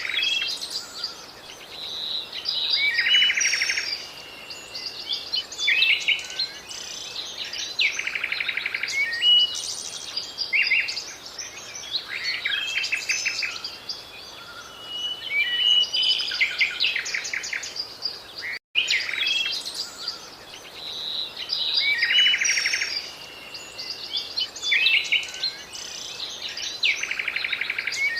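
Birds singing and calling: short chirps, whistles and buzzy trills, one after another, over a faint steady background. The sound cuts out for a split second about two-thirds through and then carries on.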